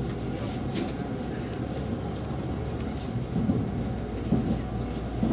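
Steady in-cabin running noise of a JR 373-series electric train under way: a low rumble with a few faint clicks early on. Indistinct voices in the carriage rise over it in the second half.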